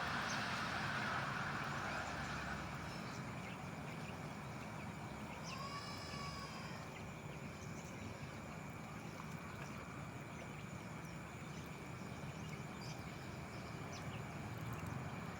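Steady outdoor background noise, with a single drawn-out animal call that rises and falls in pitch about six seconds in.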